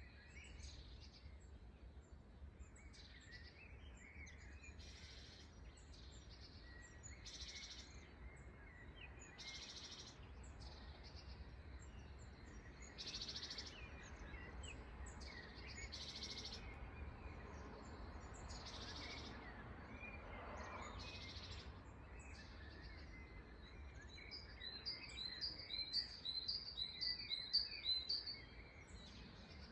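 Birds chirping: a short, buzzy high call repeats every two to three seconds, with other scattered chirps, and near the end a rapid run of high chirps starts up over a low background rumble.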